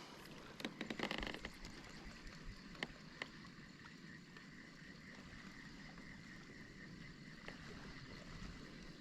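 Faint water lapping around a kayak, with a few small clicks and knocks in the first second or so and scattered ticks after, over a faint steady high tone.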